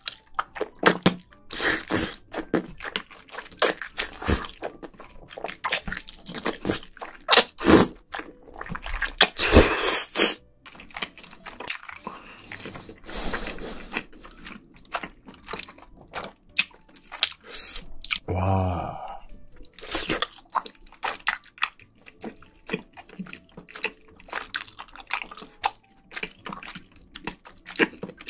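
Close-miked chewing and slurping of spicy tteokbokki and thick glass noodles: a steady run of wet smacks and clicks, with longer slurps about nine to ten seconds in and again around thirteen seconds. A brief hummed sound comes about eighteen seconds in.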